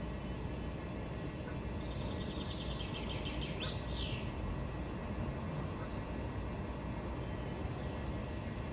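Steady low outdoor rumble, with a small bird singing a quick trill of high notes and a few fast sweeping notes about two to four seconds in.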